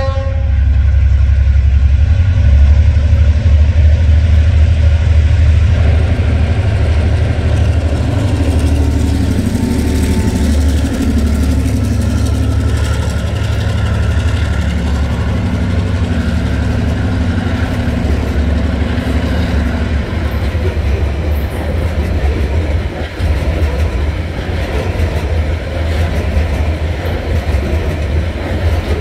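A freight train's diesel locomotives pass close by with a deep, loud engine rumble; the last note of the train horn ends at the very start. The locomotive sound fades after about twenty seconds, leaving the steady rolling noise of coal hopper wagons going over the rails.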